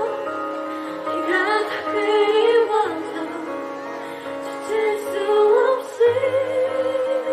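A woman singing a slow ballad, her held notes wavering with vibrato, over a steady instrumental accompaniment.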